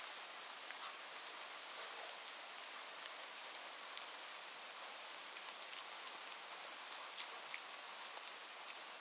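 Steady rain falling, a soft even hiss with scattered sharp ticks of individual drops.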